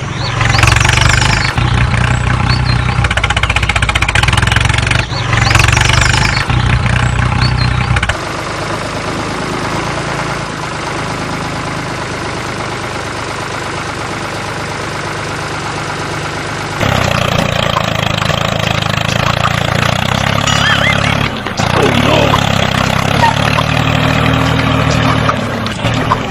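Small engine of a homemade mini loader tractor running steadily. It drops abruptly to a quieter level about a third of the way in and comes back up about two-thirds of the way through.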